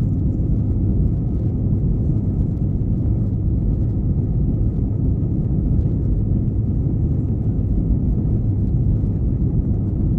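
Steady low rumble of engine and airflow noise inside the cabin of an Airbus A321-211 in flight, with a faint steady whine above it.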